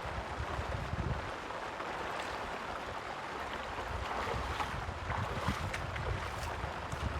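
Steady rush of moving water with wind buffeting the microphone in a deep, uneven rumble.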